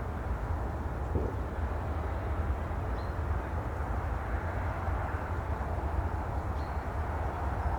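Steady rumbling wash of ocean surf, an even noise with a deep low rumble and no single wave standing out.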